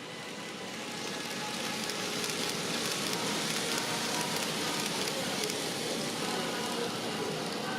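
N-gauge model train running along the layout track: a steady rattling clatter of small wheels on rail that grows louder over the first couple of seconds as the train approaches, then holds.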